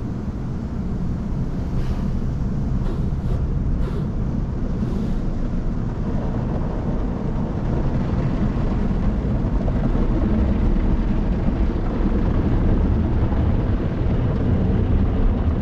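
Automatic tunnel car wash running around the car, heard from inside the cabin: a steady rushing noise of water spray and wash machinery that grows a little louder.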